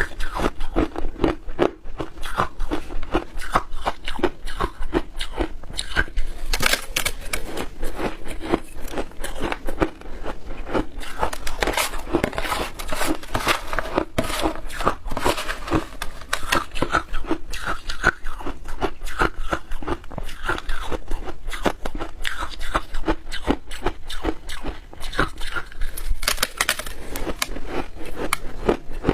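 Shaved ice being bitten and chewed close to the microphone: a dense, continuous crunching made of many small crackles.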